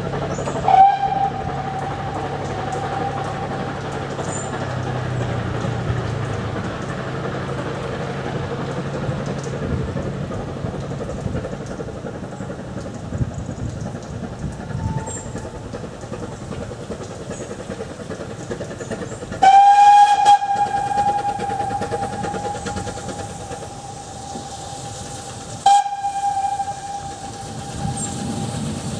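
Narrow-gauge steam locomotive's whistle: a blast about a second in, then a long loud blast past the middle and another near the end, over the steady noise of the train running.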